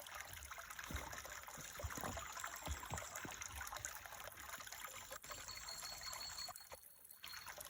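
Water trickling steadily, with a few soft low knocks in the first few seconds and a faint thin high tone in the second half.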